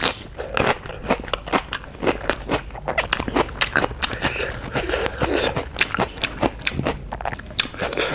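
A person chewing a mouthful of chicken biryani and a raw green chilli, with many short crunches in quick succession.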